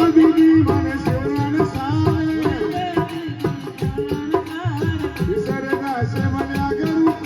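Group of women singing a rural Hindi nirguni bhajan (folk devotional song), with a drum keeping a steady beat and fast ticking percussion.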